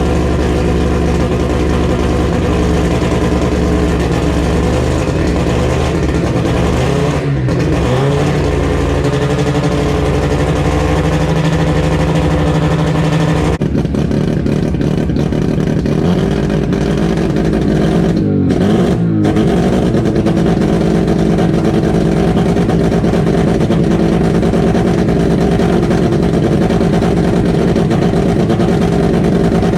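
Car engine running loudly and continuously on a start-up after a month laid up. The engine note changes about halfway through, and the pitch swoops briefly twice, about 7 and 18 seconds in.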